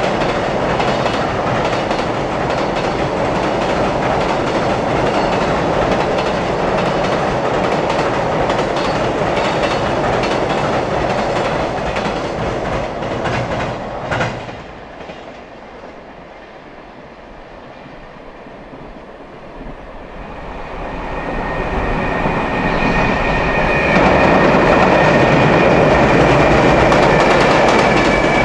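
Container freight wagons rolling over a steel girder bridge, with a rattling clatter of wheels over rail joints and a rumble through the bridge deck. The noise drops away as the end of the train passes, about halfway through. A second container train then builds to full loudness over several seconds, with a steady high-pitched ringing tone above its rumble.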